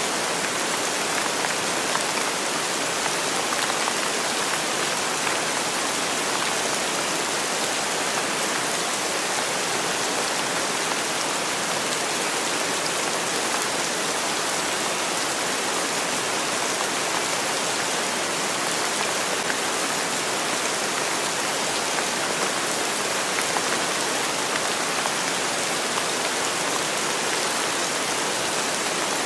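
Steady rainfall, an even hiss of countless drops with no distinct individual hits.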